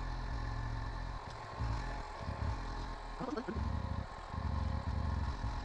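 Honda Sahara 300 single-cylinder motorcycle engine running at low speed, its note swelling and dropping in short on-off throttle pulses. A brief chirping call cuts in about three seconds in.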